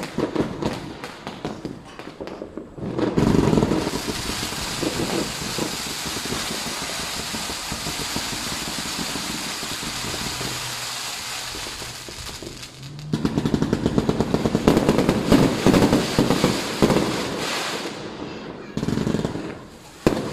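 Firecrackers going off in long rapid strings of cracks, a dense popping that gives way to a steady hiss for several seconds in the middle and starts again about two-thirds of the way through, ending in a few sharp bangs.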